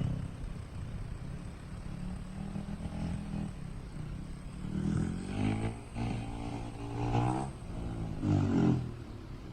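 Yamaha YZ250 two-stroke dirt bike engine running, revved up in several short pushes in the second half.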